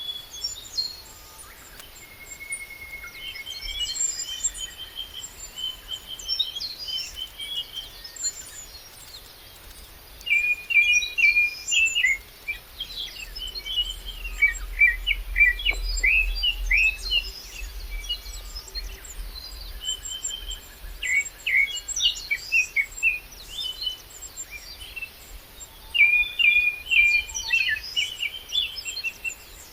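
Several songbirds singing and chirping at once, with rapid trills that come loudest about ten seconds in and again near the end. A low wind rumble on the microphone runs under the birdsong in the middle.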